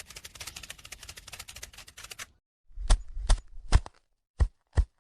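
A fast run of light clicks for about two seconds, then after a short pause a series of separate sharp knocks, several in quick succession.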